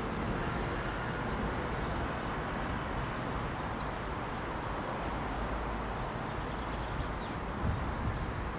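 Steady outdoor background rumble and hiss with no distinct event.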